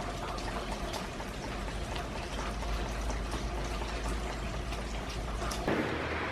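Rain falling, with many small drips pattering; a little before the end it changes abruptly to a steadier hiss.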